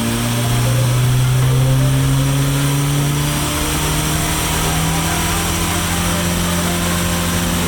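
2011 Toyota Prius's 1.8-litre four-cylinder engine running under load on a chassis dynamometer during a power run, its pitch climbing slowly and steadily.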